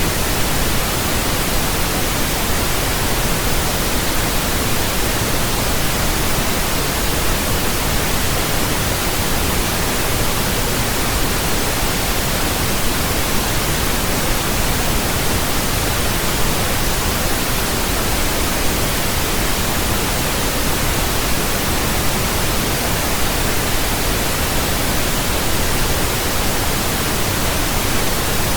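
Steady pink noise: an even, unchanging hiss, deeper than white noise.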